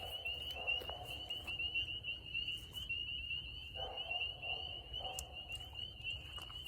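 Spring peeper chorus at night: many high, short peeps overlapping into a continuous shrill band, with a few lower-pitched pulsing calls joining in the middle.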